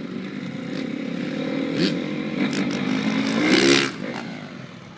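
Freestyle motocross bike engine revving up, rising in pitch and growing louder to a peak near the end, then cutting back sharply as the rider comes off the throttle. A couple of short sharp clacks about two seconds in.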